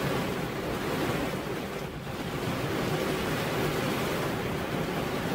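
Heavy rain pouring steadily onto a veranda roof.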